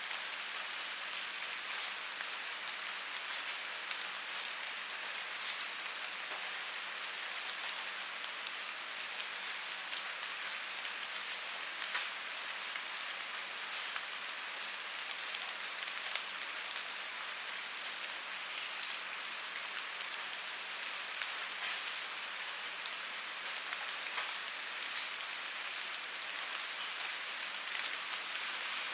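Steady rain falling, a dense even hiss with many scattered drops pattering on a surface.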